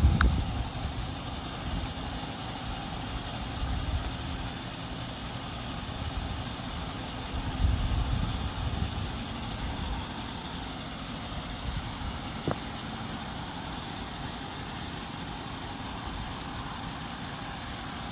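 A car's engine running with a steady low rumble. It swells briefly near the start and again about eight seconds in, and there is a single short click about twelve seconds in.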